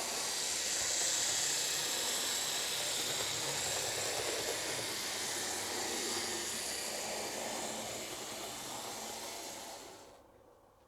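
HO scale model of an NS class 1300 electric locomotive running along the track: a steady hiss of its electric motor, gears and wheels. It tapers off and stops about ten seconds in.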